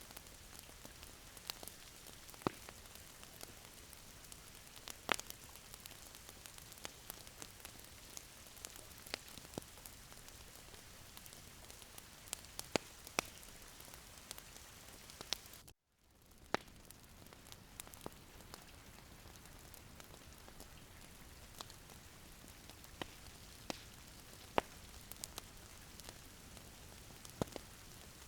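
Wood fire crackling in a fireplace: a steady soft hiss with irregular sharp pops and snaps. The sound cuts out completely for a split second about halfway through, then picks up again.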